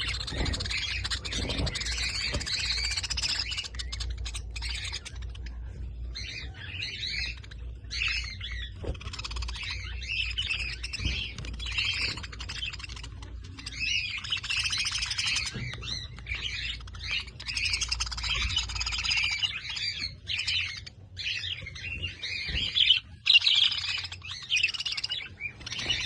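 Budgerigars chattering: a continuous run of quick chirps and warbles with short pauses, over a low rumble that fades out about two thirds of the way through.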